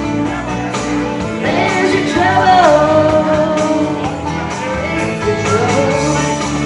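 Rock song with a voice singing over a band backing with guitar; the sung notes slide up and are held.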